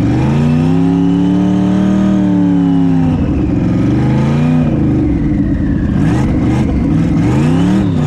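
LS V8 engine in a BMW E36 drag car revving under throttle. The revs climb and hold for about two seconds, drop about three seconds in, then rise and fall quickly twice near the end.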